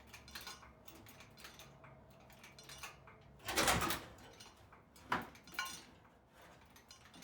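Metal clanks and knocks as an engine and transmission being hoisted out of a pickup are worked free, the stub of drive shaft on the transmission catching. A louder scraping clatter comes about three and a half seconds in, then two sharp knocks about a second later.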